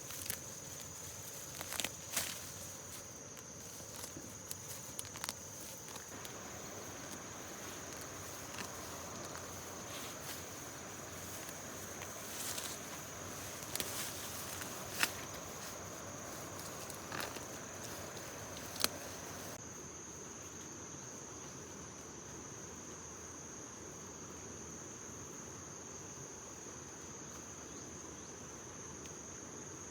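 Insects, crickets or similar, chirring in one steady high-pitched tone, with scattered sharp clicks and rustles over roughly the first two-thirds.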